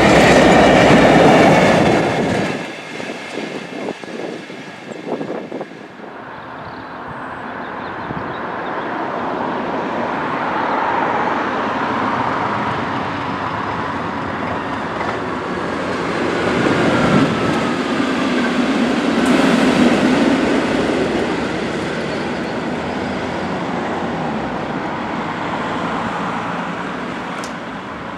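A train running on the rails: loud at the start, dropping away about two and a half seconds in, then a steady rolling rumble that builds, swells and slowly eases.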